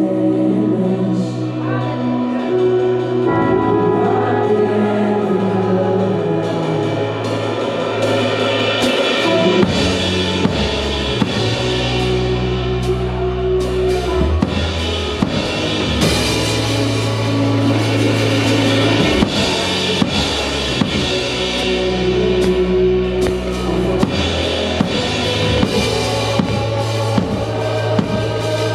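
Live worship band playing: sustained keyboard chords and bass, with a drum kit coming in partway through and settling into a steady kick-and-snare beat toward the end.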